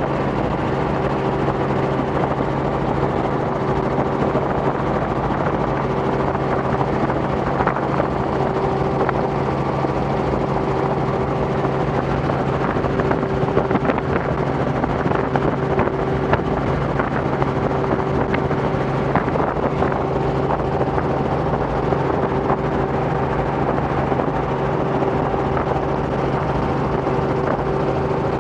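Robinson R44 helicopter in cruise flight: the steady drone of its piston engine and rotors, a constant low hum with a higher steady tone over a wash of noise.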